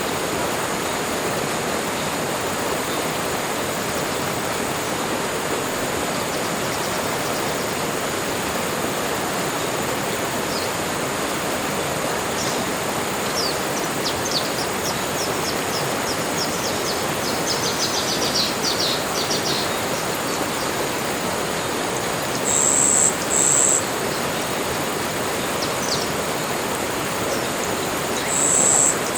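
Tropical forest ambience: a steady rushing noise with a faint constant high insect-like whine. A run of quick high bird chirps comes midway, and two pairs of short, loud, high whistled notes, the loudest sounds, come near the end.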